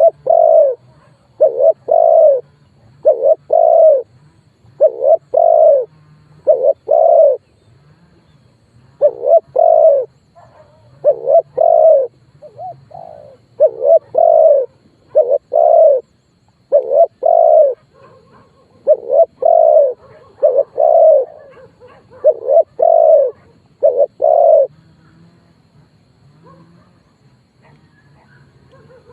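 Spotted dove cooing: a steady series of low, loud coo notes, many in close pairs, about one a second, stopping about 25 seconds in. It is a lure call meant to draw wild male spotted doves in to fight.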